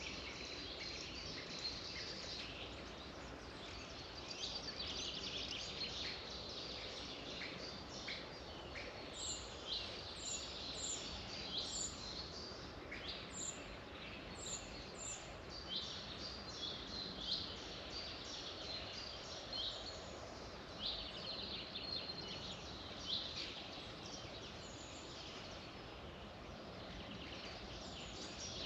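Several songbirds chirping and trilling, many short high calls overlapping, over a steady background hiss.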